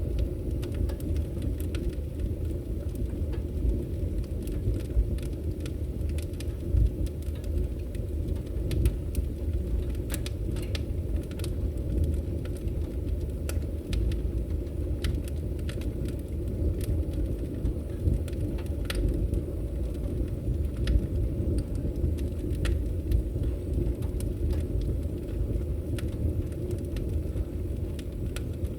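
Wood fire burning in a fireplace: a steady low rumble of flame with many short, sharp crackles and pops.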